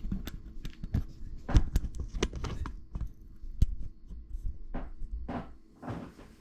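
Handling noise close to the microphone: an irregular run of sharp clicks, knocks and crackly rustles, loudest about a second and a half in and again near the four-second mark.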